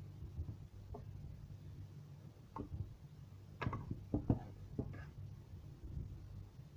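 Light, irregular clinks and knocks of a utensil against cookware as food is dished out, several in quick succession midway, over a low steady hum.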